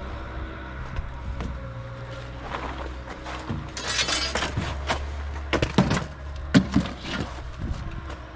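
An engine idling steadily under scattered knocks and clatter, with a crunching stretch about four seconds in and several sharper impacts a little later.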